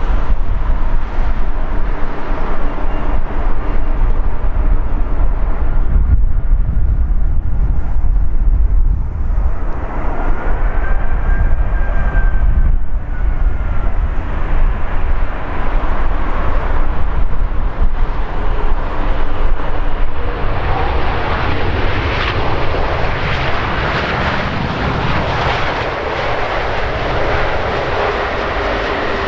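Airbus A380's four turbofan engines passing close by: loud, steady jet noise with a faint whine that rises and falls about halfway through, easing a little over the last several seconds.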